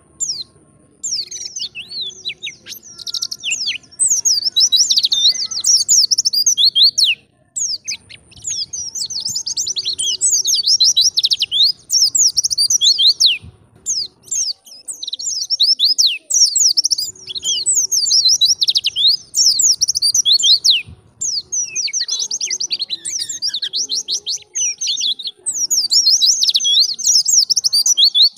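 White-eye (pleci) singing energetically in long, rapid, high-pitched twittering phrases, several runs of a few seconds each broken by short pauses.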